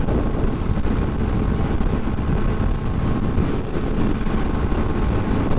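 Motorcycle engine running steadily while riding on the road, mixed with low wind rush on the bike-mounted microphone.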